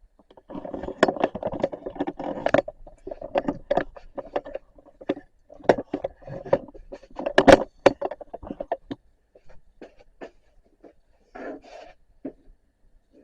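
Irregular scraping, rubbing and knocking at close range, like objects being handled, with a sharp knock about seven and a half seconds in and sparser clicks toward the end.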